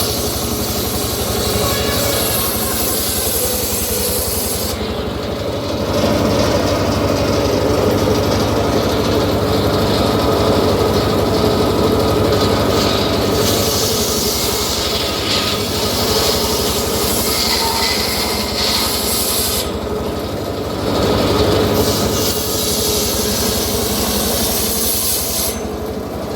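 Homemade engine-driven circular sawmill running steadily, its blade rasping through a teak log. The high hiss of the cut lets up briefly about five seconds in and again around twenty seconds in.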